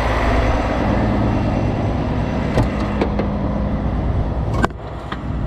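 Heavy-duty tow truck's diesel engine running steadily, with a few sharp clicks and a loud knock about four and a half seconds in, after which it sounds quieter.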